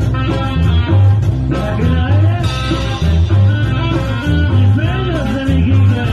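Band playing an instrumental passage of a cumbia, a steady repeating bass beat under a melody line with sliding notes.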